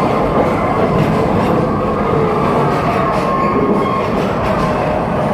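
Amusement-park passenger train running along its track: a steady, loud rumble of the cars and wheels with a faint wavering squeal over it.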